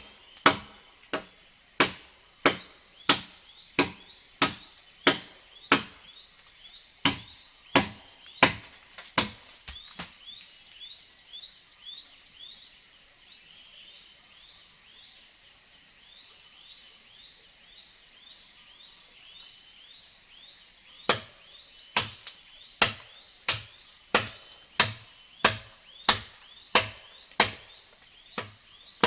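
Steady chopping strokes into wood, about one and a half a second. They stop for roughly ten seconds in the middle, leaving a high, fast-repeating chirping from the forest, then resume.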